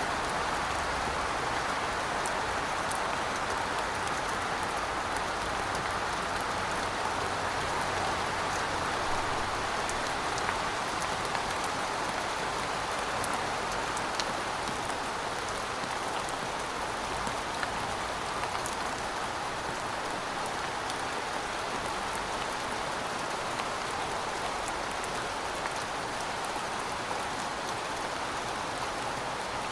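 Heavy rain falling steadily: a dense, even hiss of rainfall, with scattered sharper ticks of individual drops.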